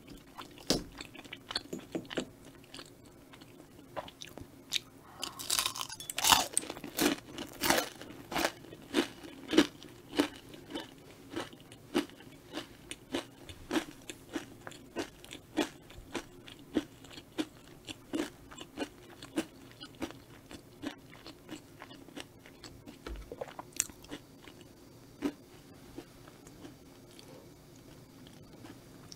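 Close-miked chewing of a mouthful of tteokbokki, chewy rice cakes in rose cream sauce: short wet mouth clicks at a steady pace of about three every two seconds. The chewing is loudest about five to ten seconds in and grows softer and sparser in the last third.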